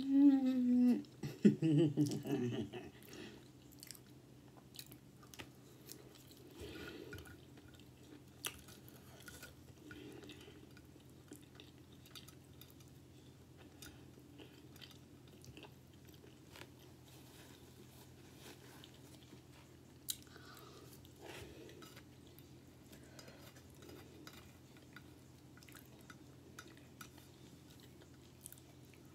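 Close-miked chewing and soft wet mouth sounds of someone eating cheese fries and fried fish, with a couple of sharp clicks of a plastic fork on the plate. It opens with a loud hummed 'mmm' that rises in pitch.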